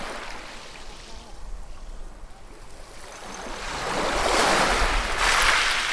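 Sea waves on a shore: a steady wash of surf, then a wave surges in and breaks about four seconds in, its hiss swelling loud and falling away near the end.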